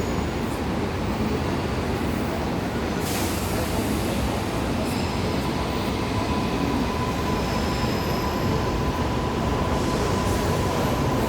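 New York City subway train running along the track with a continuous rumble. A thin, steady high whine joins about five seconds in and fades out near the end.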